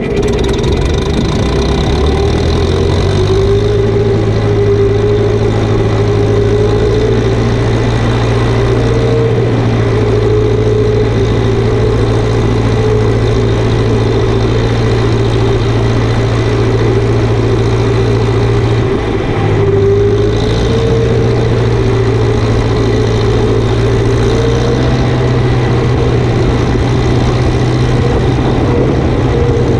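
Farm vehicle's engine speeding up over the first few seconds, then running steadily, with a brief dip in speed about two-thirds of the way through before picking up again.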